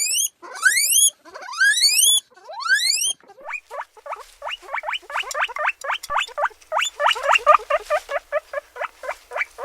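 Guinea pig wheeking: four long, rising whistled squeals, then a fast run of short rising squeaks, about five a second.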